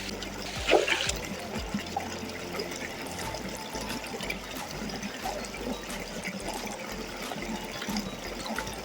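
Running water, a steady trickling flow, with a short louder noise under a second in.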